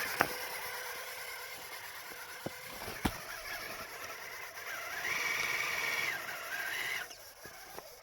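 RC rock crawler's electric motor and drivetrain whining under throttle as it struggles for traction in snow; the pitch steps up about five seconds in, drops back, and the sound cuts out near the end, with a few sharp clicks earlier on.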